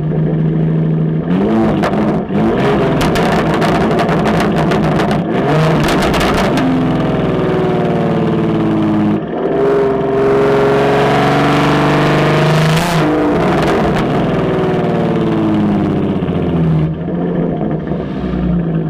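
Supercharged 3.6-litre V6 of a 2016 Chevrolet Camaro, breathing through a 3-inch MBRP race cat-back with Carven mufflers, revving hard: the engine note climbs, falls back, climbs again to a peak and then drops and settles lower near the end.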